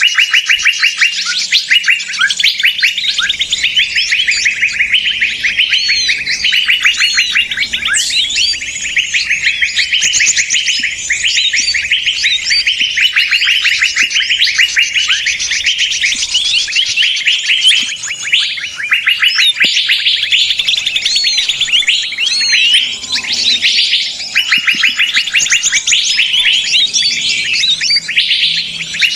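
A dense, unbroken chorus of many small birds chirping and chattering at once, rapid high trills and calls overlapping without pause: a noisy bird-lure recording of the kind played to draw wild birds in.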